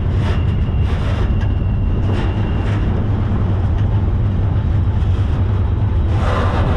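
Freight train running, heard from aboard a moving car: a steady low rumble with rattling and a few brief surges of noise. A faint thin whine sounds for the first few seconds.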